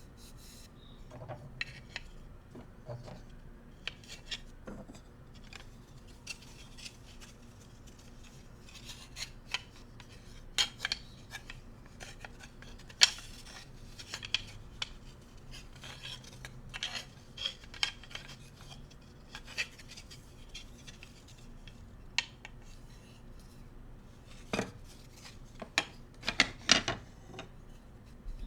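Bamboo cooking utensils being tapped, scratched and rubbed: irregular sharp wooden clicks and taps with scraping between them, and a quick run of louder taps near the end.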